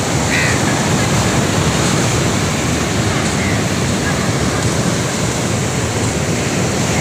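Rough sea: waves washing against a fishing boat, with wind buffeting the microphone, a steady loud rush of noise.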